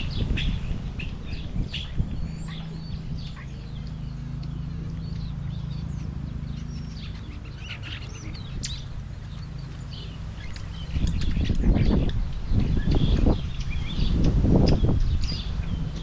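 Many small birds chirping at the feeders, a steady scatter of short, high chirps and tweets. Underneath, a low steady hum runs through the middle, and from about eleven seconds in louder low rumbling comes in surges.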